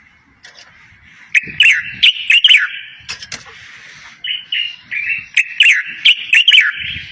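A songbird singing two fast twittering phrases of quick sweeping notes mixed with sharp clicks. The first phrase comes about a second in and the second starts after the middle and runs on.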